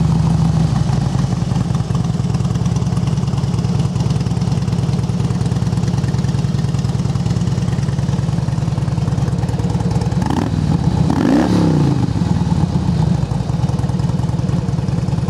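2005 Harley-Davidson Softail Springer's balanced Twin Cam 88 V-twin running steadily through an aftermarket Rinehart exhaust. About eleven seconds in, the pitch briefly rises and falls.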